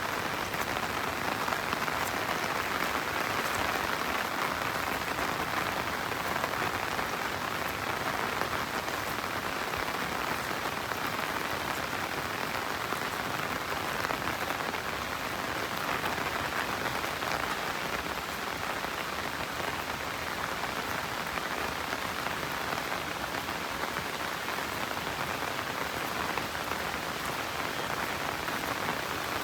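Steady rain falling, an even hiss with fine patter of drops, strongest in the mid range, holding level throughout.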